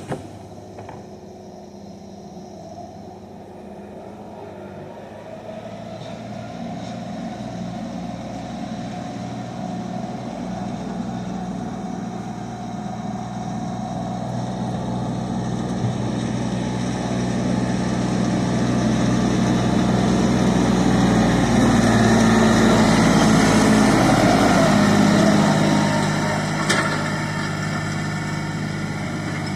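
Tractor engine running, growing steadily louder as it comes closer, loudest a little over two-thirds of the way through, then easing off.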